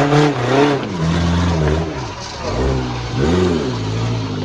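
Off-road 4x4 vehicle engine revving, its pitch rising and falling several times over a steady low running note.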